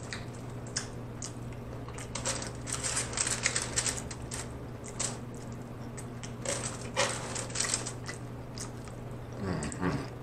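Close-miked chewing and wet mouth smacks of a person eating macaroni and cheese, in clusters of quick clicks with short pauses between, over a steady low hum.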